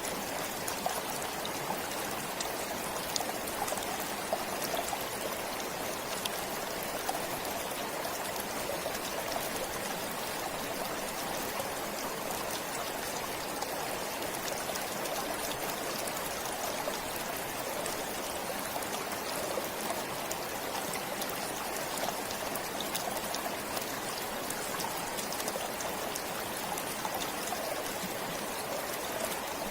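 A forest stream flowing steadily, a continuous rush of water with small splashes and trickles.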